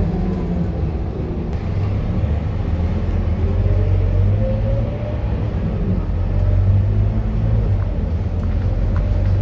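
Scania K230UB city bus's diesel engine running under way with a steady low rumble, and a fainter whine that rises in pitch a few seconds in as the bus pulls.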